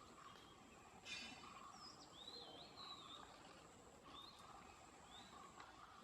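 Faint, thin high bird calls: a wavering whistled note about two seconds in, then a few short rising notes, over a low background hiss. A single soft click about a second in.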